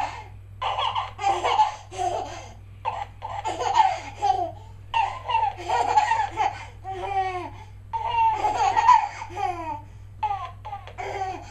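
High-pitched laughter in a string of short bursts with brief gaps between them, some of them sliding up and down in pitch.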